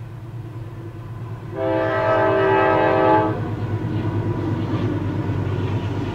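Norfolk Southern freight locomotive's air horn sounds one long blast about a second and a half in. Then the diesel locomotives, an EMD SD60E among them, rumble steadily past the grade crossing, engines running and wheels on the rails.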